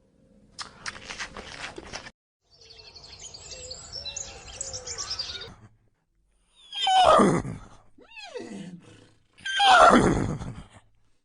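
Horse whinnying: two loud calls that fall steeply in pitch, about seven and ten seconds in, with a shorter falling call between them. Quieter clicking and animal sounds come first.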